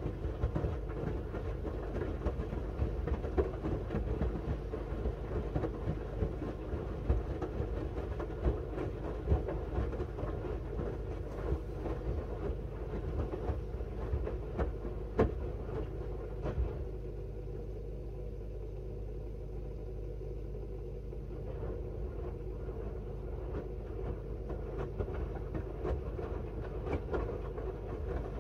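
A Miele W1 front-loading washing machine in its wash cycle: the drum turns with a steady motor hum and rumble, and the laundry and water slosh with occasional light knocks. A little past the middle it goes quieter for a few seconds as the drum pauses, then the tumbling resumes.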